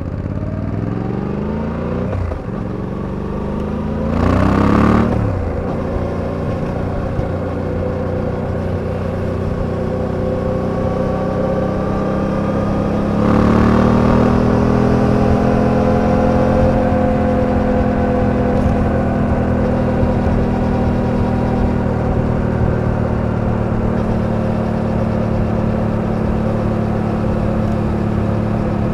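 Suzuki V-Strom 800DE's parallel-twin engine under way. Its pitch falls over the first couple of seconds, then climbs with throttle about four seconds in and again about thirteen seconds in, each climb starting with a brief rush of noise. It then settles into a steady cruise.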